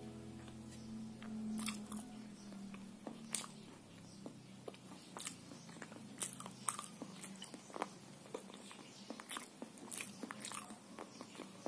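A person chewing and biting a fried sweet-potato snack close to the microphone: soft, scattered mouth clicks and crunches.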